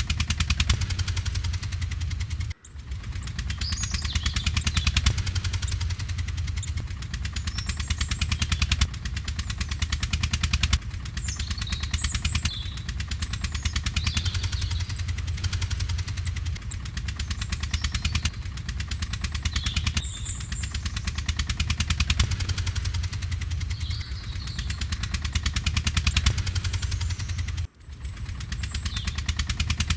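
Radio-controlled toy tractor running with a rapid, steady chugging, like a small engine. Birds chirp faintly. The sound breaks off for a moment about two and a half seconds in and again near the end.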